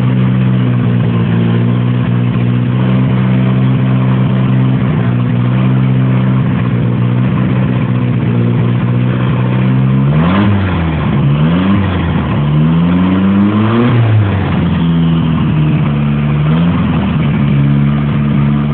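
Mitsubishi Lancer engine idling steadily on its first start after a year-long rebuild. About ten seconds in, it is blipped in a few quick revs, rising and falling, and then settles back to a steady idle.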